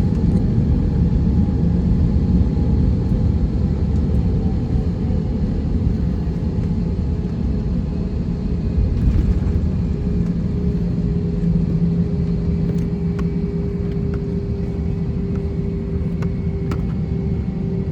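Cabin noise of an Airbus A321-231 heard from a window seat: a loud, steady low rumble from the IAE V2500 turbofan engines and airframe, with a few steady engine tones over it.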